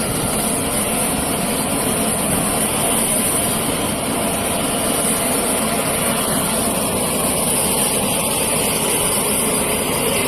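Heavy engines running steadily, with a constant high-pitched whine-like hiss over a low rumble.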